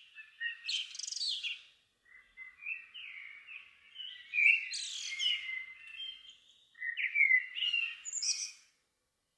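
Songbird singing at dusk in three quick, varied phrases of rising and falling whistled notes, with short pauses between them, then falling silent shortly before the end.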